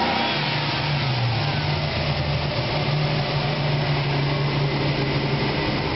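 Yamaha-built 3.2-litre Ford Taurus SHO V6 running steadily through headers, a Y-pipe and a single 2.5-inch turbo-muffler exhaust, giving a low, even engine note.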